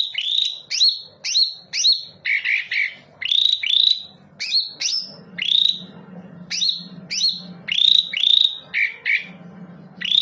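Cucak ijo (green leafbird) song, used as a lure call to set caged birds singing. It is a fast series of loud, upward-sweeping whistled notes, about two a second, interspersed with clusters of shorter chirps.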